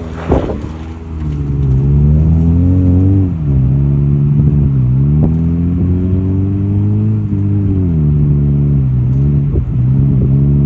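Subaru Impreza's flat-four engine revving under load as the car is drifted through snow. The pitch climbs over the first two seconds, drops sharply about three seconds in, rises again and then holds, with small dips near the end.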